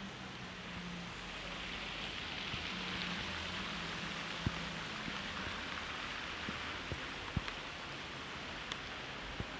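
Steady hiss of rain and car tyres on a wet street, swelling for a few seconds as a car passes with a low engine drone, then settling; a few sharp ticks of drips in the second half.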